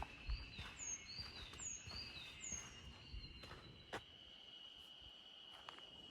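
A bird sings a short phrase of high, falling whistles about three times in the first three seconds, over a steady, thin, high-pitched insect drone, with occasional footsteps.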